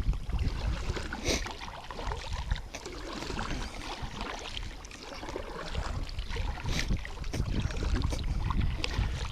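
Wind rumbling on the microphone of a kayak on open water, with a few sharp clicks and taps scattered through it.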